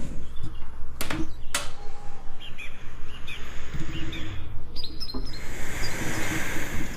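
Birds chirping with short calls and quick pitch glides over a continuous rushing bed of river water. Two sharp clicks about a second in.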